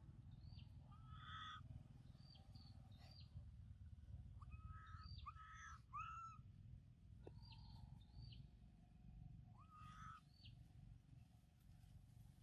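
Faint forest birdsong: short arched chirping calls every second or so, with a quick run of them about five to six seconds in, over a low steady rumble.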